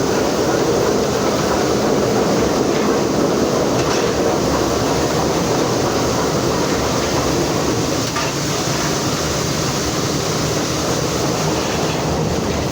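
Steady running noise of NSW 59 class steam locomotive 5917 under way, heard in its cab: wheels rolling on the rails, with an occasional faint click.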